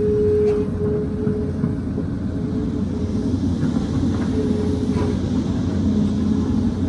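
Excavator's diesel engine running steadily under load, with a whining tone that comes and goes and a few faint knocks.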